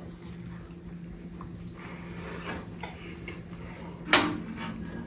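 Quiet eating sounds: soft chewing and mouth noises from people eating steamed buns, over a steady low hum. About four seconds in comes one short, sharp noise, the loudest moment.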